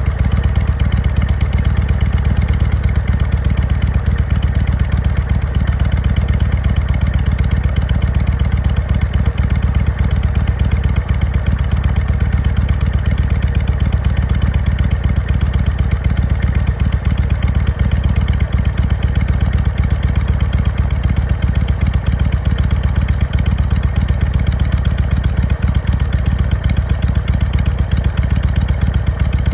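Harley-Davidson Sportster 883 V-twin fitted with a Mikuni HSR42 carburetor and S&S parts, its exhaust running at a steady idle with a deep, even pulsing note.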